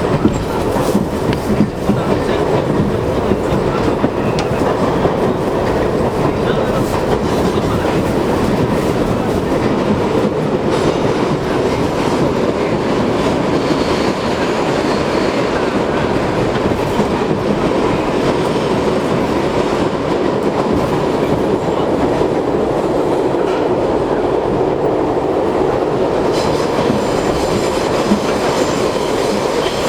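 R62 subway car running between stations, heard from inside the car: a steady rumble of steel wheels on the rails with clickety-clack over the rail joints.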